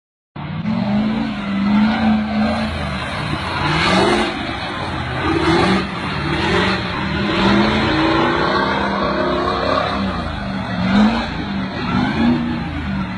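Truck engine revving up and down repeatedly, its pitch rising and falling again and again, over a steady rumble of road and driving noise.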